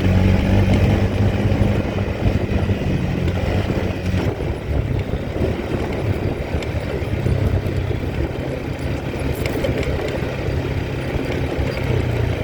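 Quad bike engine running as it is ridden. The engine note eases off about four seconds in and comes back about three seconds later.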